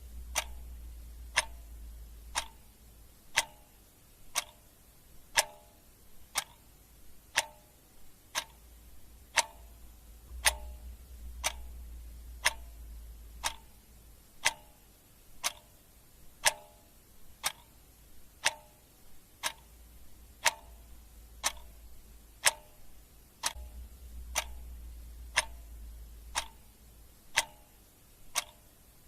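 Clock ticking steadily, about once a second, each tick a sharp click. Beneath it a low hum comes and goes in spells of a few seconds.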